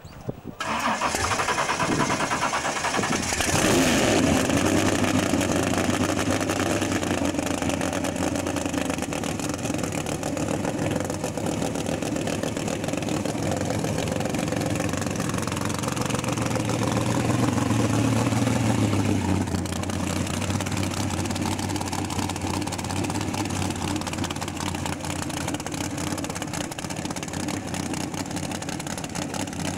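V8 engine of a Mk1 Ford Cortina drag car starting up: it fires about half a second in, surges loudly a few seconds later, then idles steadily, the idle rising slightly for a few seconds past the middle before settling back.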